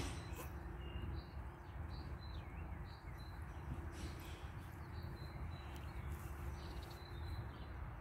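Small birds chirping now and then in short high calls, over a steady low rumble.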